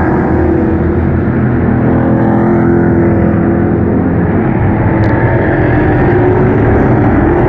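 A field of Pro Truck race trucks running laps at racing speed, with several engines heard at once, loud and steady, their pitches shifting a little as the trucks pass.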